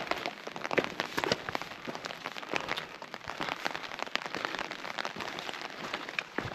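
Rain falling, with many close drops striking as a dense spatter of sharp ticks.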